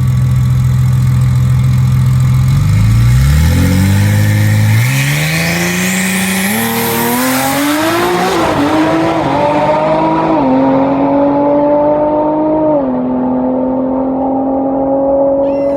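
Drag race car engine holding a steady rev, then launching. It accelerates hard with its pitch climbing through several gear changes, then settles to a steadier note that grows duller as the car pulls away down the track.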